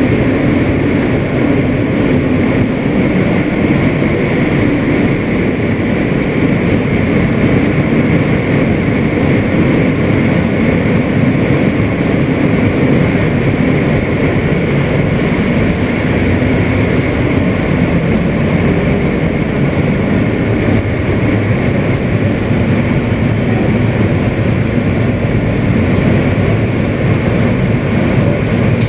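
Kawasaki R160B subway car with Siemens propulsion running between stations, heard from inside: a loud, steady rumble of wheels on the track, with a faint steady high tone over it.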